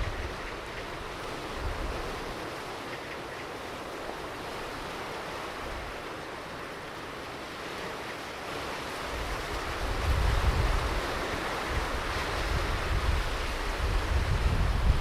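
Ocean surf washing onto a beach, a steady rush that swells louder about two-thirds of the way through, with wind buffeting the microphone as a low rumble.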